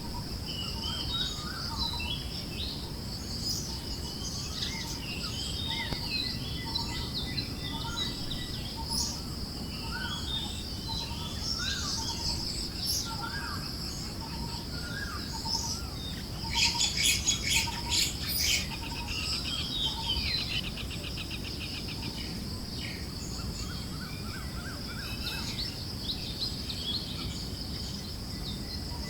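Forest birds chirping and calling over a steady high insect drone and a soft low wind hush. One bird repeats a short note about every 0.7 seconds. A louder rapid rattling trill comes about halfway through.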